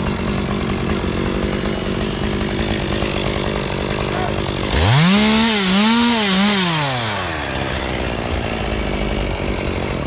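Chainsaw running at idle, then revved hard about five seconds in. Its pitch rises and dips a few times over about two and a half seconds before falling back to idle.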